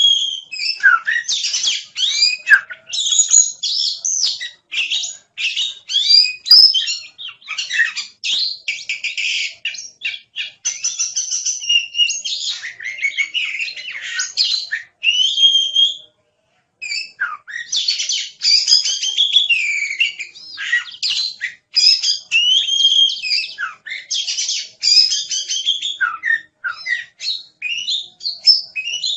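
Oriental magpie-robin (kacer) singing non-stop, a fast, varied stream of whistles, trills and chirps, with one short pause a little past halfway.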